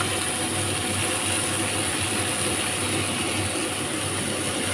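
Chicken tikka pieces frying in oil in a pan, a steady crackling sizzle, over a low steady hum.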